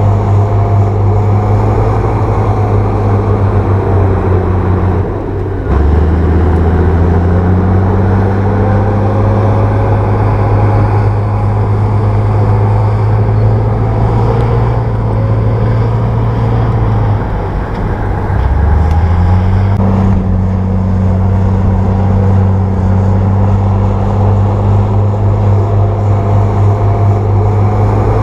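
Crawler bulldozer's diesel engine running steadily while working. Its note drops and climbs back up twice, about five seconds in and again around seventeen seconds.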